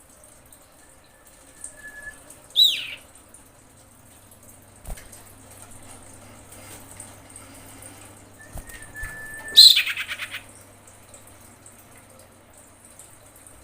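Female common iora calling: a thin level whistle followed by a loud downward-sweeping note, given twice. The second time it ends in a quick chattering run. These are the calls of a female in breeding condition calling for a male.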